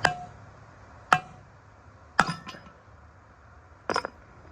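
Sharp metal-on-metal strikes, each with a short ring: single hits about a second apart, then quick pairs. These are steel tools and rear wheel hub parts knocking together.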